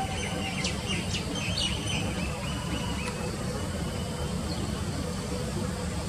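Bird chirping in quick, high notes and short down-slurred calls, busiest in the first three seconds and thinning out after, over a steady low rumble.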